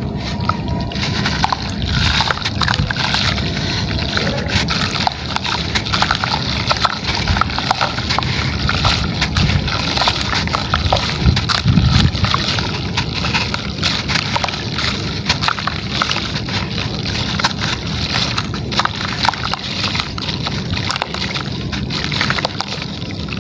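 A gritty material crumbling in water, with steady sloshing and a dense run of small crackles and clicks.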